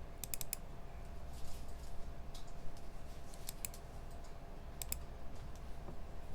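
Computer keyboard keys being tapped in short, sparse runs, a quick flurry of four clicks near the start and single clicks and pairs after, over a steady low hum of room equipment.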